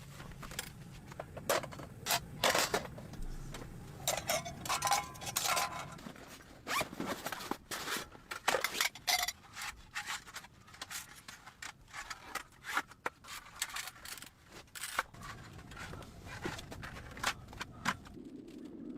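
Irregular handling noises of someone working with gear: quick scrapes, rustles and sharp clicks coming in uneven runs, some of them zipper-like.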